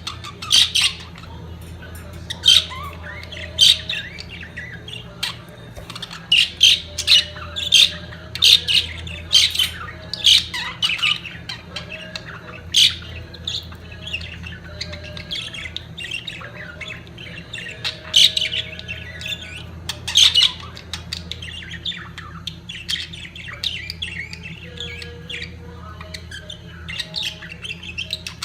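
Budgerigars in breeding condition chattering, with frequent loud sharp squawks and chirps over a steady low hum.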